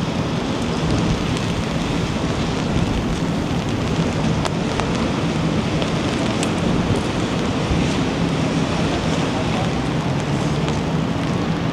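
Steady rain and wind: an even hiss with scattered sharp ticks of drops and a low steady hum underneath.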